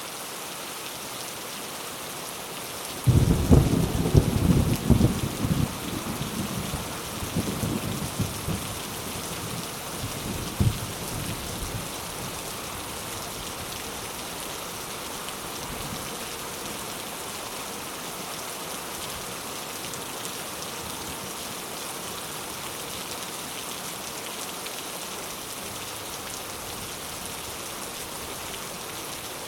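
Steady heavy rain falling as an even hiss. About three seconds in a roll of thunder breaks in low and loud, rumbling for several seconds and dying away, with one last sharp crack around ten seconds in.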